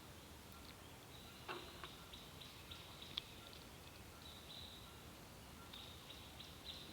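Near silence, with faint, scattered high chirps and ticks in the background and a single soft click about three seconds in.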